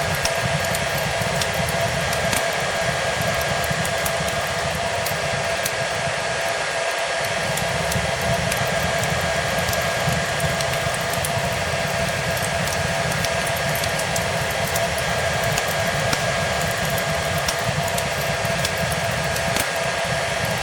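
Hair dryer blowing steadily, its motor holding a constant whine under the rush of air, with faint scattered crackles of a wood fire in the fireplace.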